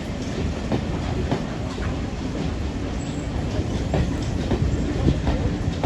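A steam-hauled train rolling steadily past, its wheels clicking irregularly over the rail joints over a continuous low rumble.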